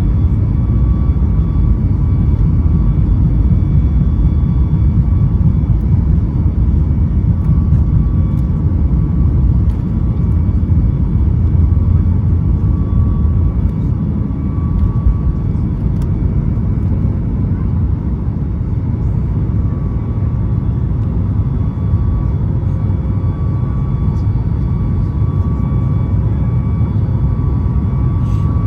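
Boeing 737 MAX 8 cabin noise: a steady deep rumble of airflow and the CFM LEAP-1B engines, with faint steady whining tones above it.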